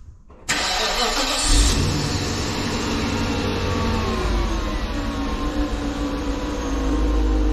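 Mercedes-Benz W140 S500's 5.0-litre V8 starting about half a second in: the starter cranks briefly, the engine catches with a flare of revs, then the revs fall and settle into a steady idle.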